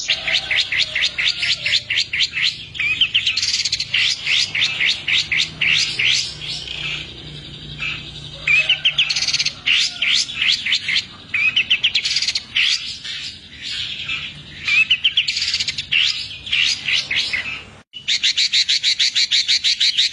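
Long-tailed shrike (cendet) singing in full voice: a fast, rapid-fire string of sharp high notes, about ten a second, broken here and there by short rising glides. The song drops out briefly near the end, then starts straight back into a new run of rapid notes.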